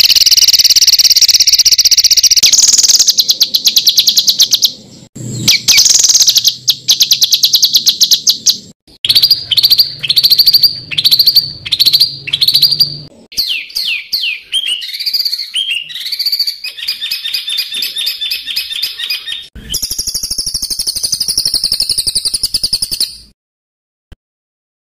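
Songbird song made of harsh, rapid-fire rattling trills and fast repeated notes, with a run of quick downward-sweeping whistles in the middle. The phrases change abruptly at cuts, and the song stops shortly before the end.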